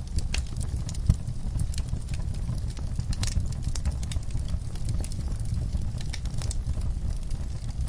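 Wood fire crackling, with irregular sharp pops over a steady low rumble; the loudest pop comes about a second in.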